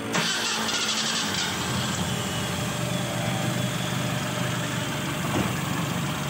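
Mitsubishi Lancer box-type's carbureted engine idling steadily, with an extra hiss in the first second or so.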